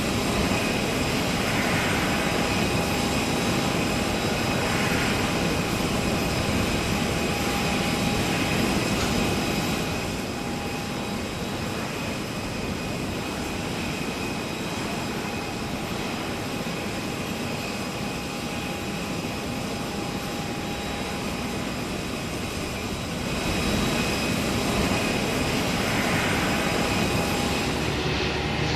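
Jet airliner engines running, a steady rush with a constant high whine over it. It drops a little in level about ten seconds in and comes back up near the end.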